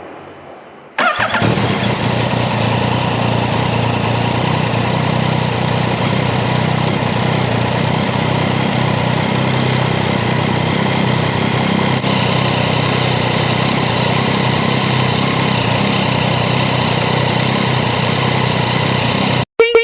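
Yamaha XSR900's CP3 inline-three engine idling steadily after its cam chain tensioner has been adjusted to cure its chain rattle; the engine sound comes in abruptly about a second in and cuts off just before the end.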